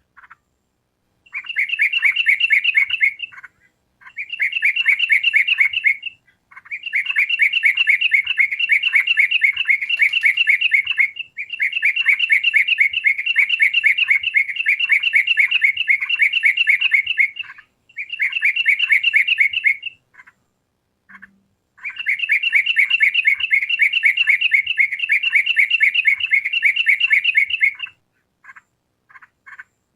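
Yellow-vented bulbul (trucukan) singing a fast chattering run of repeated notes, in bursts of a few seconds each with short pauses and a few single notes between.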